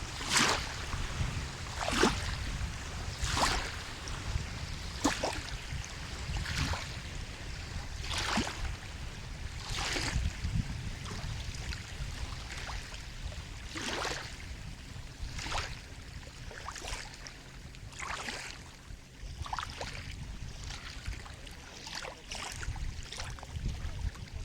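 Small sea waves lapping and splashing, one short splash about every second and a half, over a steady low rumble.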